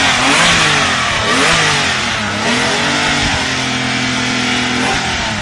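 A rear-engined car's engine being revved in repeated blips, its pitch rising and falling several times, then held steady for about a second and a half before dropping near the end.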